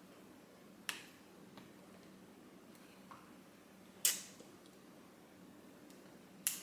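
Three sharp clicks about a second, four seconds and six and a half seconds in, the middle one loudest, with a few fainter ticks between them, over a low steady hum.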